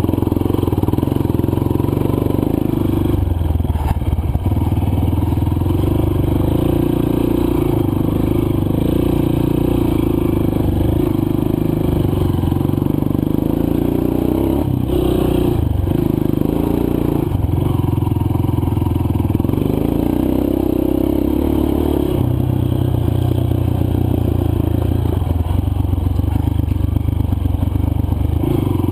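Single-cylinder four-stroke dirt bike engine running under way on a trail, with the note dipping briefly a few times as the throttle eases off and comes back on.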